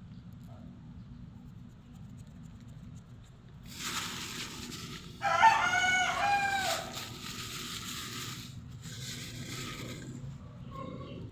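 A rooster crows once: a drawn-out call of several pitched syllables, about a second and a half long. Behind it is a rushing noise that comes up a little before the crow and fades out a few seconds after it.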